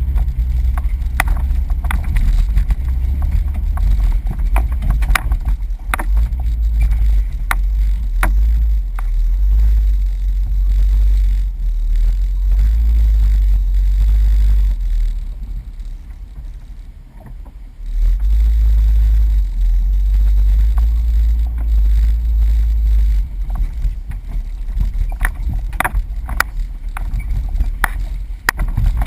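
Jeep driving over a rough off-road trail: a heavy low rumble with frequent sharp knocks and clunks, easing off for a couple of seconds about halfway through.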